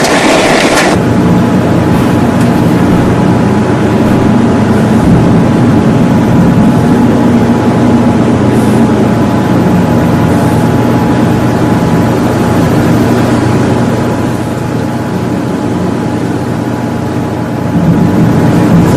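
Vehicle cabin noise while driving: a steady engine drone under a wash of wind and road noise, with a loud rush in the first second and a few seconds of slightly quieter running near the end.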